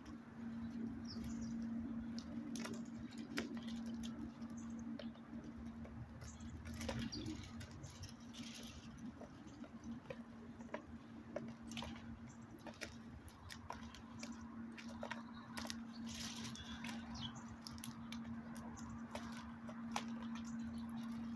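Irregular light taps, scratches and scrabbling of small animals feeding at a backyard bird feeder, over a steady low hum.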